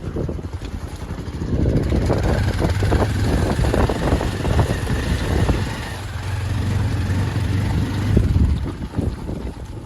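Motorcycle engine running under way on a rough track, swelling in about a second and a half in, easing briefly midway, then picking up again before dropping off near the end.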